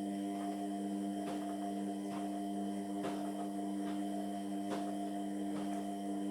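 Indesit MyTime washing machine in the wash phase of a Cotton 60 cycle: a steady motor hum with several held tones, with soft irregular knocks over it.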